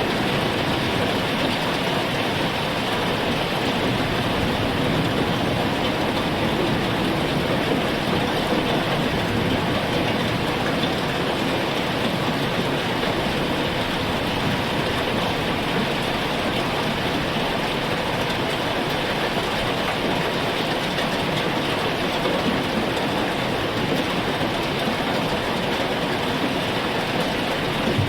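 Heavy rain falling steadily, a dense, unbroken hiss of rain.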